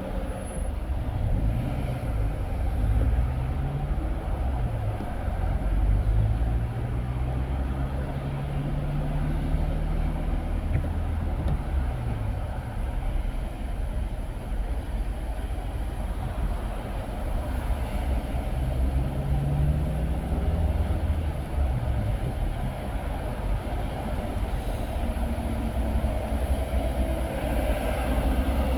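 A car driving on the road: steady engine and tyre rumble, with the engine note rising and falling a few times as the car speeds up and eases off.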